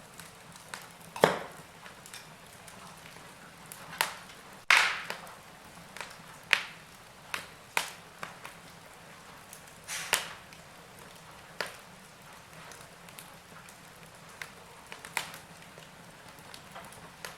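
Wood fire crackling in a fireplace: sharp snaps and pops at irregular intervals over a soft hiss, with the loudest snap about five seconds in.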